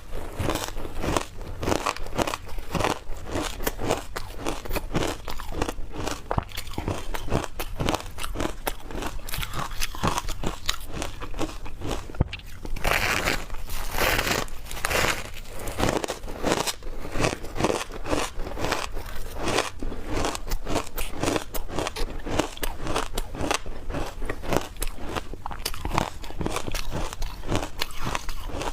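Frozen matcha ice with milk powder being bitten and chewed: a continuous run of rapid, crisp crunches, a little louder around the middle.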